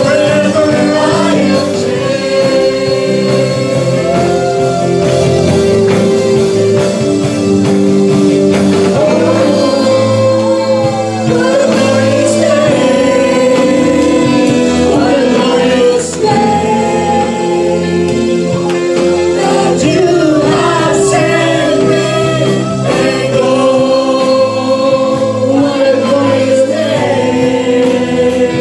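Gospel song: voices singing a melody over sustained instrumental accompaniment.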